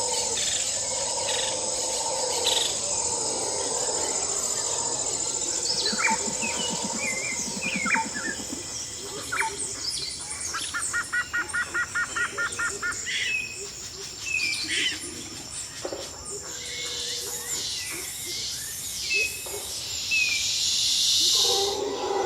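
Wild birds calling and chirping: scattered short high chirps and whistles, with a quick run of about eight even notes a second near the middle.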